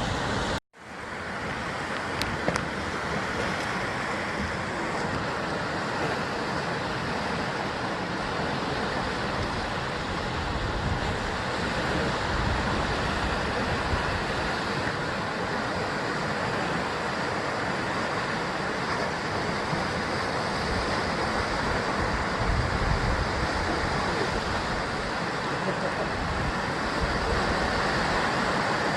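Sea waves surging and washing against a rocky basalt coast, a continuous rushing surf with a heavy, uneven low rumble of wind on the microphone. The sound drops out for a moment under a second in and fades back up.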